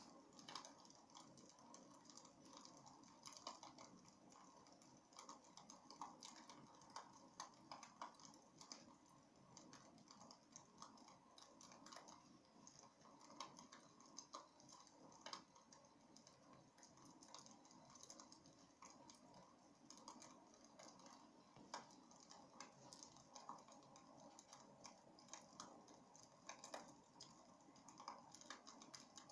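Wood fire crackling faintly in a fireplace, with small irregular pops and snaps over a soft low hiss.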